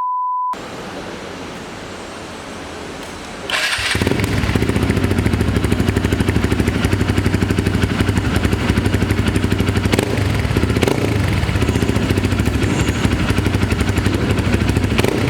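Hero Xpulse 200 4V's single-cylinder engine breathing through a Motowings full-system aftermarket exhaust. It comes in abruptly about three and a half seconds in and runs steadily at idle with a rapid, even pulsing exhaust note.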